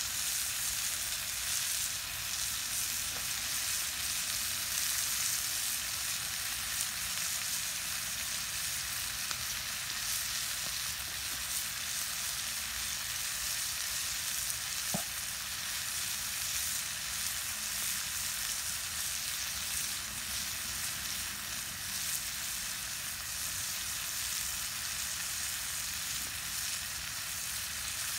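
Sliced mushrooms and green beans sizzling steadily in a cast-iron skillet over a wood fire, an even frying hiss, with a single faint click about halfway through.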